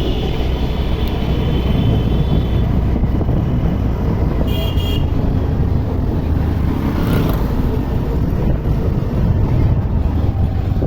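Steady road and wind rumble while riding a scooter through town traffic, with a vehicle horn held over the first couple of seconds and a short horn toot about four and a half seconds in.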